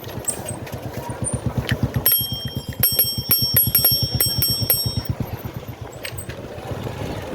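Bicycle bell rung rapidly and repeatedly, about four dings a second for some three seconds, over a low rumble of riding noise.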